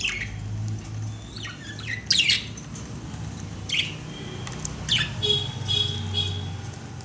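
Pet budgerigars calling: several short, sharp squawks and chirps, with a longer warbling call in the second half, over a steady low hum.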